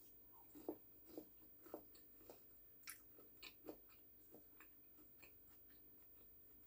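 Close-up chewing of a piece of battered fried food, with soft crunches about twice a second that fade out after about four seconds.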